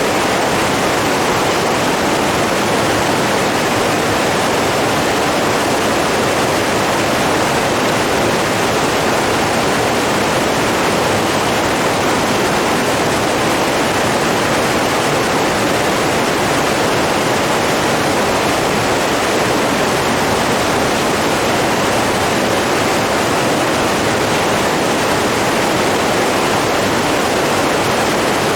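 Steady, even rush of flowing water with no breaks or changes.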